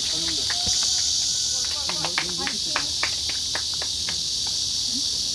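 Steady, high-pitched drone of summer insects, with a cluster of short, sharp clicks about two to three and a half seconds in.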